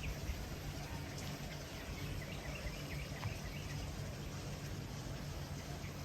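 Outdoor garden ambience: a steady low rush of background noise, with faint short chirps from birds or insects about two to three seconds in.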